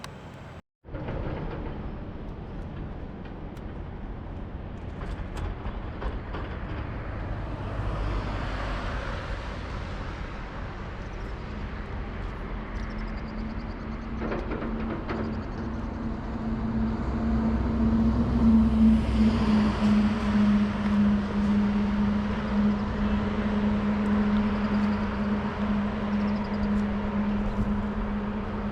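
Outdoor vehicle noise: a steady engine hum joins about halfway and grows louder toward the end, over a background of passing traffic.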